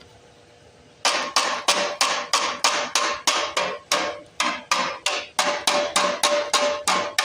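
Sheet-metal engine blower shroud being knocked repeatedly to shake out packed dirt and debris: sharp metallic strikes in a steady rhythm of about three a second, each with a brief ring, starting about a second in.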